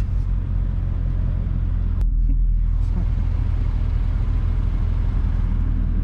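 Car driving, a steady low engine and road drone that shifts abruptly about two seconds in.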